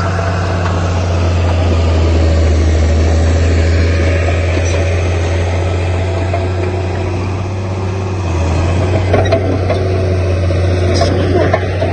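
Heavy diesel construction machine engine running steadily with a strong low hum; the sound changes about nine seconds in.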